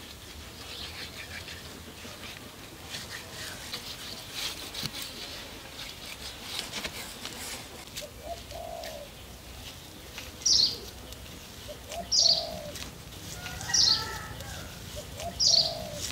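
A bird calls loudly four times in the second half, about one call every second and a half, over softer bird chirping.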